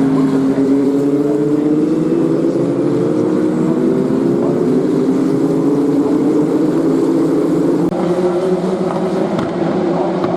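W Series race car engines (Tatuus Formula 3 cars, turbocharged 1.8-litre four-cylinder) running at speed on track. The engine pitch climbs slowly as the car accelerates. The sound changes abruptly about eight seconds in.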